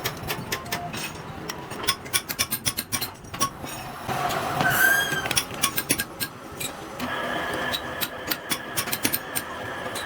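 Factory machinery at work on metal parts: clusters of rapid clicks and knocks, a brief squeal about five seconds in, and a steady machine whine from about seven seconds on.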